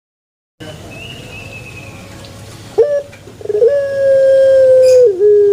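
Puter pelung dove (Streptopelia risoria) calling: after a moment of silence, a short note about halfway in, then a long drawn-out low coo held steady, stepping down and falling in pitch near the end.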